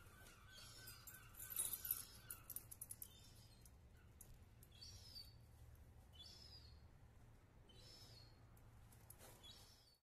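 Faint high bird calls, short chirps repeating every second or two. A burst of sharp clicks and rustling about one and a half to three seconds in, over a faint steady low hum.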